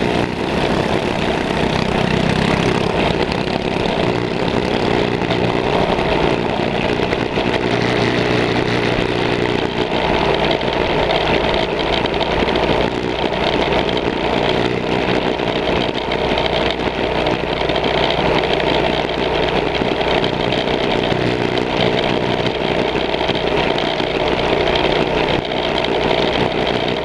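Several small mini bike engines running during a race, their pitch rising and falling as they rev.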